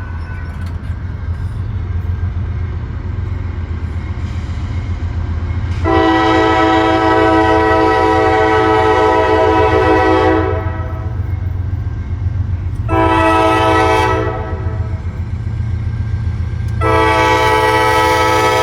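Freight train locomotive's air horn sounding a long blast, then a short one, then another long one starting near the end, over the low, steady rumble of the approaching train.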